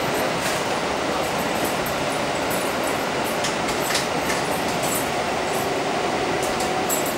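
Running noise heard inside a Kintetsu 1230 series electric train car: a steady rumble of wheels on rail with a few light clicks.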